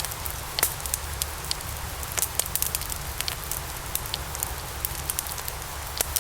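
Logs burning in a fireplace: a steady hiss with frequent sharp, irregular crackles and pops.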